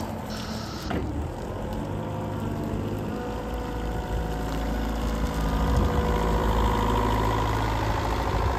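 Linde H30D diesel forklift engine running steadily, growing a little louder from about four seconds in, with a higher whine joining in the second half. An intermittent high beeping stops about half a second in.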